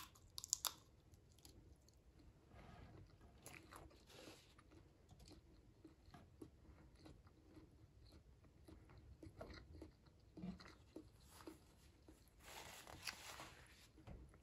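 Close-miked chewing of a garlic shrimp: soft wet mouth sounds and small clicks, with a few sharp bites about half a second in.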